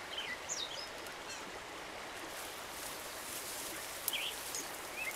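Steady outdoor background hiss with a few short, high bird chirps scattered through it.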